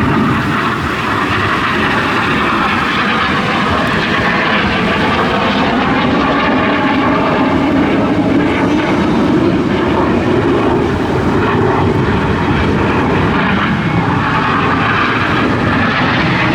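Display aircraft engine noise overhead: a loud, steady rush of engine sound that holds without a break.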